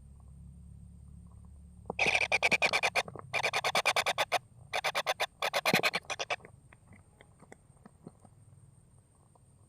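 A kingfisher giving rapid rattling calls in three bursts, followed by a few faint clicks.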